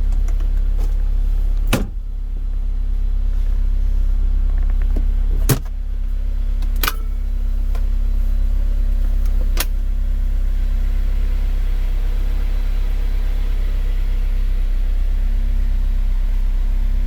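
Honda S2000's inline-four engine idling steadily with a low rumble. Four sharp clicks or knocks come in the first ten seconds.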